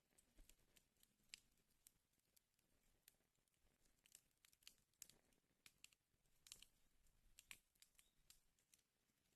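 Wood fire burning in a fireplace, crackling faintly with irregular sharp pops and snaps. A run of louder pops comes about two-thirds of the way in.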